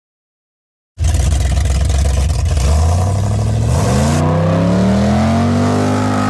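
Engine revving: a loud low rumble starts suddenly about a second in, then the engine note rises, holds high, and eases back slightly near the end before cutting off abruptly.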